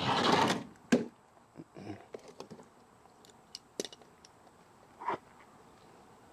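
Handling noises during an oil change: a short scuffing burst, then a sharp knock about a second in, scattered light clicks, and a last knock about five seconds in.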